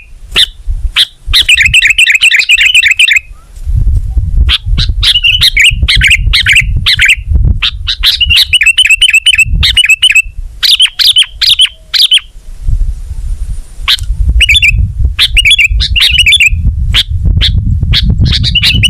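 Sooty-headed bulbul (kutilang) singing in loud runs of quick, chattering notes, with a short pause about two-thirds of the way in. A low rumble sits under much of the song.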